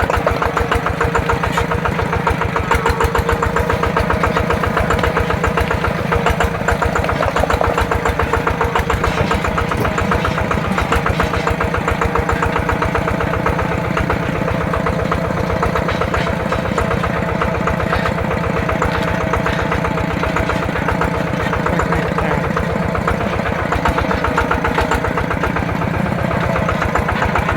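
Yanmar TF120 DI single-cylinder diesel engine of a mini tractor running steadily under way, with a loud, rapid, even beat of firing pulses.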